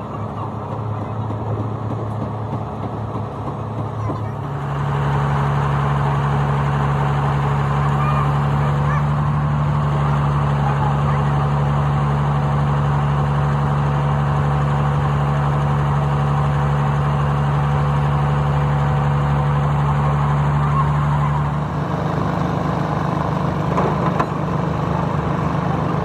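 An engine running steadily. Its speed steps up and it gets louder about four and a half seconds in, then it shifts again to a higher, pulsing note near the end.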